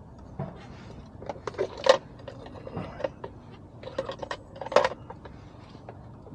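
Scattered, irregular clicks and light knocks inside a slow-moving car's cabin over a low steady background, with a sharper knock about two seconds in and another near five seconds.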